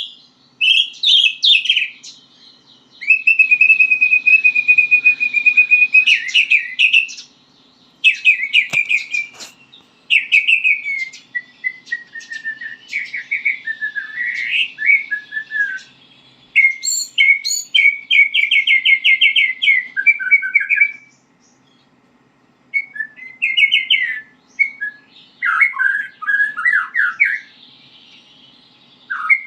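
White-rumped shama singing a varied, rambling string of short whistled phrases, trills and chatters with brief pauses: a young bird practising its song. One phrase near the start is a long, steady whistle held for several seconds, and a single sharp click sounds about nine seconds in.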